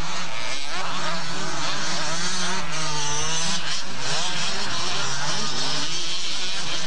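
Several motocross bikes racing together, their engines revving up and down in overlapping rising and falling pitches.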